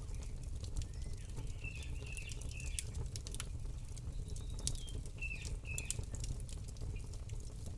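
Campfire crackling, with frequent sharp pops over a low steady rumble. A small bird chirps in short twittering phrases twice, about two seconds in and again after five seconds.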